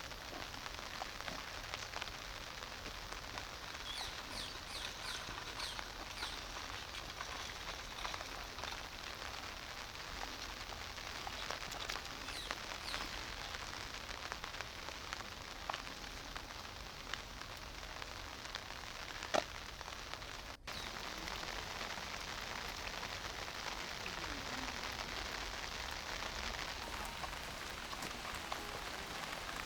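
Steady rain falling, an even hiss with scattered close drops ticking. There is a short run of high chirps about four seconds in and a sharper tick about two-thirds through; the sound cuts out for an instant just after and returns slightly louder.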